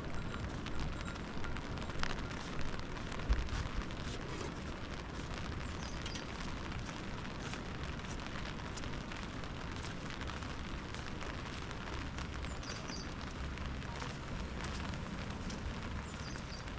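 Open wood cooking fire crackling over a low, steady rumble, with a few louder pops in the first few seconds.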